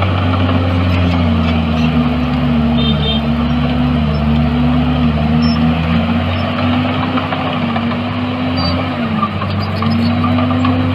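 Heavy diesel engine of earthmoving machinery running under work, a steady loud drone whose pitch rises and dips slightly as the engine speed changes.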